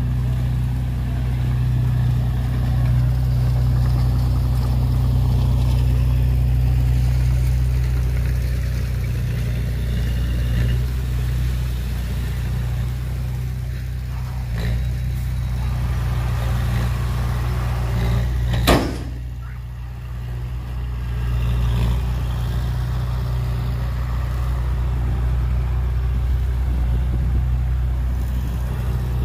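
Heavy diesel engine of a dump truck or bulldozer running steadily. About two-thirds of the way through there is a single sharp bang, after which the engine briefly quietens before picking up again.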